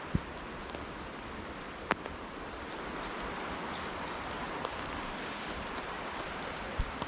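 Steady patter of falling wet snow, with a few sharp ticks just after the start, about two seconds in, and near the end.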